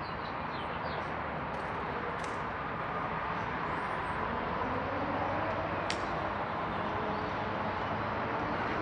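Steady low rumble of a parked car's engine idling under a wash of urban background noise, with one sharp click about six seconds in.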